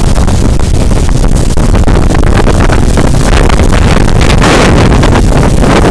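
Strong wind gusting hard against the microphone: a loud, rumbling rush with no letup.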